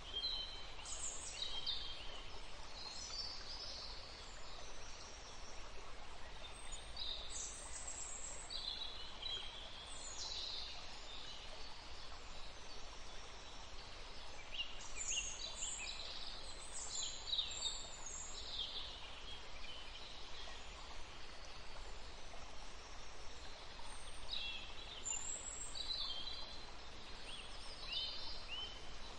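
A river flowing steadily, with songbirds calling in short, chirping phrases that come in clusters every few seconds over the water noise.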